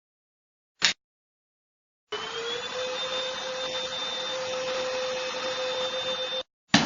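TINTON LIFE VC812 cordless stick vacuum's motor starting about two seconds in, its whine rising slightly as it spins up, then running steadily for about four seconds before cutting off abruptly. A short click comes about a second in, and two brief loud bursts come near the end.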